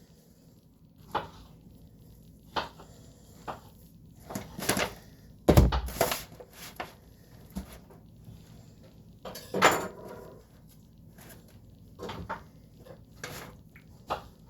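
A utensil clinking and scraping against a dish while no-bake cheesecake filling is scooped and spread. It is a string of scattered knocks, the loudest about five and a half seconds in and again near ten seconds.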